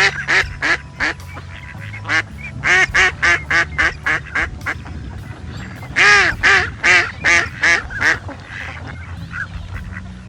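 Waterfowl calling in quick runs of quack-like calls, about four or five a second, in three bouts: a short one at the start, a longer one from about two seconds in, and a third around six seconds in.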